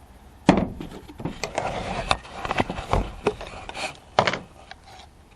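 Bait containers and gear being handled and rummaged through: rubbing and rustling broken by knocks and clacks, the sharpest about half a second in and another about four seconds in.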